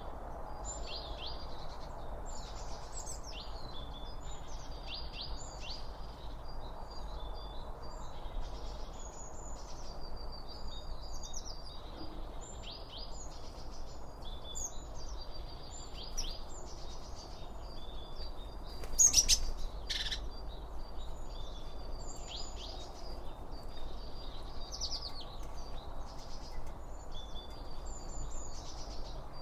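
Many small birds chirping and singing over a steady low rushing background. About two-thirds through, a louder, sharper burst of sound lasts about a second.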